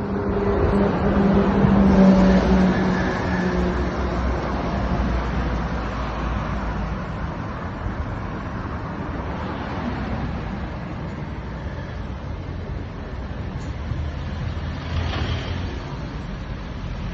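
Crossfire ECR1500 electric dirt bike with a 1.5 kW brushless motor, ridden on its slowest response and speed setting. A low motor hum is loudest in the first few seconds and fades out, leaving a steady rushing noise of the moving bike.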